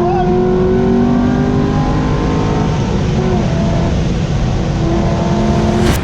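Car engine pulling hard under acceleration, its pitch climbing steadily, dipping briefly about halfway as at a gear change, then climbing again. The sound cuts off sharply near the end.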